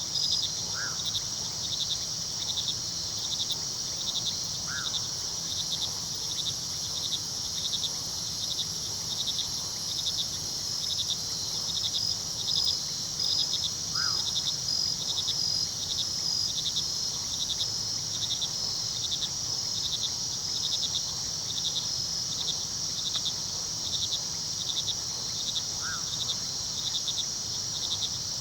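Night chorus of crickets: a steady high chirring with a second, pulsing cricket trill beneath it. Four short calls come through at intervals over a faint steady low rush of the river and distant waterfall.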